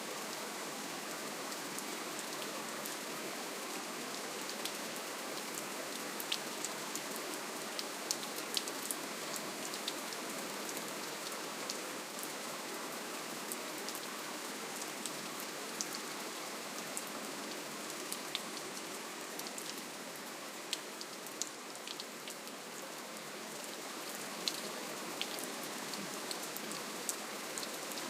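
Steady rainfall, a soft even hiss with many scattered individual drops ticking on a surface throughout.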